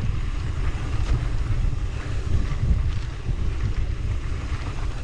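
Wind buffeting a chest-mounted GoPro microphone as a mountain bike descends at speed, with tyre noise on the dirt trail and scattered small knocks from the bike.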